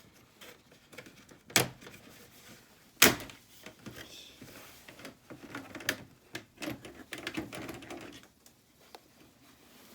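Knocks and clicks of plastic air-conditioner panel parts and screws being handled: two sharp knocks about one and a half and three seconds in, then lighter clicks and rustling.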